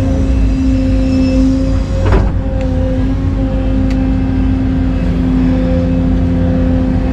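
Excavator's diesel engine running steadily under load, with a steady whine over its low rumble and a short knock about two seconds in.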